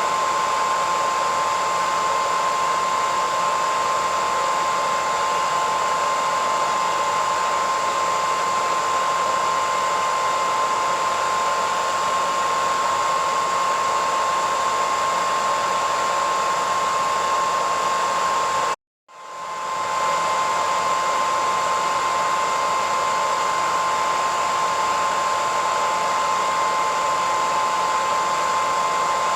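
Hairdryer running steadily: an even rush of air with a steady whine. About nineteen seconds in it cuts out for a split second and swells back to full within a second.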